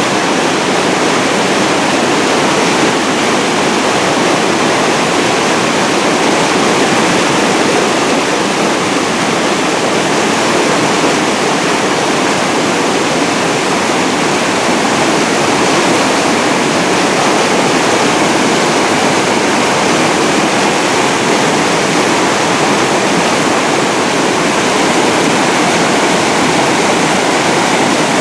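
Floodwater pouring over a mill-pond dam and churning below it: a loud, steady rush of water.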